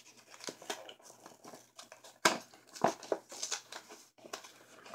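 Candy packaging being opened and unwrapped: a run of crinkling and crackling with short sharp clicks, the loudest about two seconds in.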